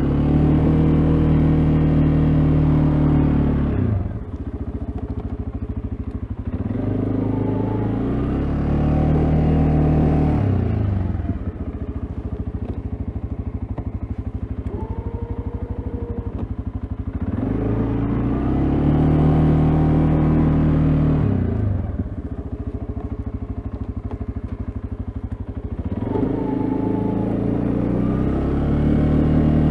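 CFMoto CForce ATV engine working a snow plow, revving up in four surges as it pushes through deep snow and dropping back to a lower, steady drone between pushes.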